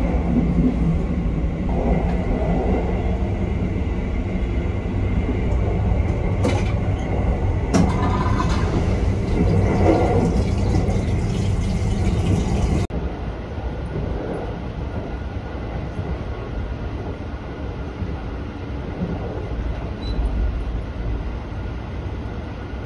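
JR local train running on the rails: a steady low rumble with two sharp clicks about six and a half and seven and a half seconds in. About thirteen seconds in the sound changes abruptly, and a slightly quieter rumble carries on.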